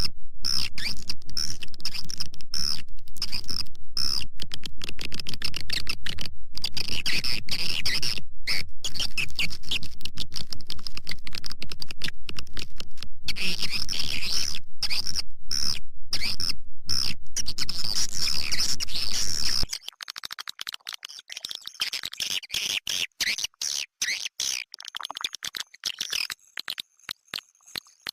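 Recorded swiftlet calls used as a lure for swiftlet-house colonies: rapid, evenly repeating chirps over a steady low hum. About 20 s in, the hum drops out and the chirps turn sparser and patchier.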